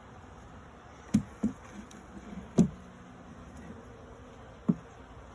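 Honey bees buzzing faintly around an open hive, broken by four sharp knocks, the third the loudest.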